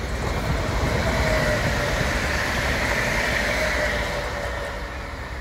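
Stadler FLIRT electric multiple unit passing close by at speed: a rush of wheel-on-rail and air noise that swells about a second in and eases off after four seconds, with a faint steady whine.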